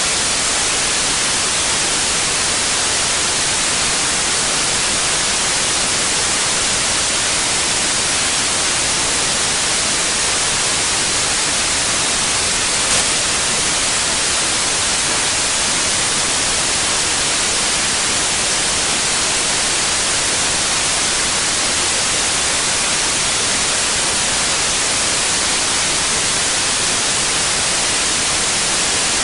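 Steady white noise: an even, unbroken hiss, brightest in the treble, with one faint click about halfway through.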